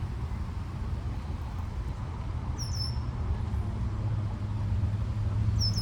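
Steady low outdoor rumble with two short, high chirps that fall in pitch: a small bird calling, once about two and a half seconds in and again at the very end.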